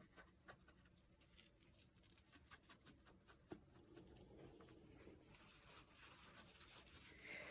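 Faint, irregular scratching and dabbing of a crumpled tissue on watercolour paper, scrubbing out small highlights from the painted wash.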